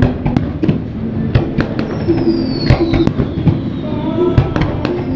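Aerial fireworks shells bursting in quick succession: a run of sharp bangs and crackles, with a high whistle gliding down in pitch about two seconds in.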